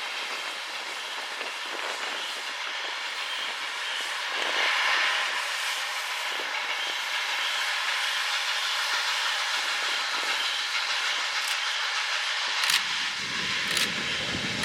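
Norfolk & Western 611, a 4-8-4 steam locomotive, coming out of a tunnel: a steady rushing hiss of the moving train, with a deep rumble joining near the end.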